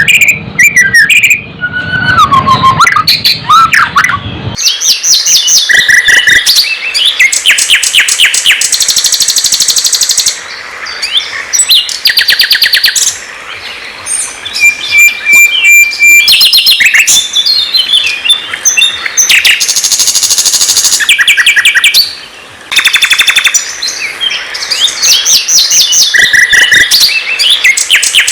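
Songbirds singing loudly, with fast repeated trills and rattling runs of high notes mixed with short whistled phrases. A low background hum under the first few seconds cuts off abruptly.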